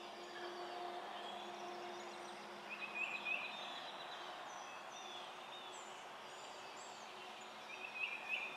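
Songbirds singing: a short warbling phrase heard twice, about five seconds apart, with faint high chirps between, over a faint steady low hum.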